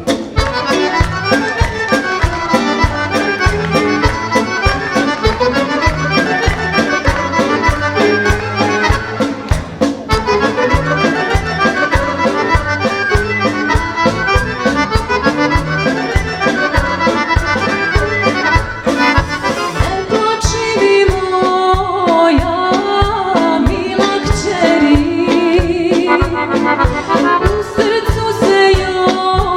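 Serbian folk music played live, led by an accordion over a steady beat. For most of the stretch the accordion plays a fast instrumental passage, and a woman's singing voice comes in about two-thirds of the way through.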